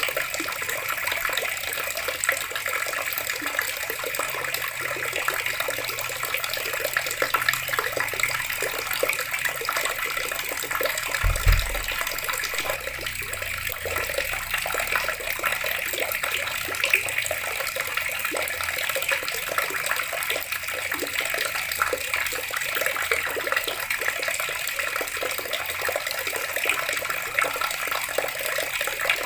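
Water running steadily from a tap, a continuous splashing hiss. There is a brief low thump about a third of the way through.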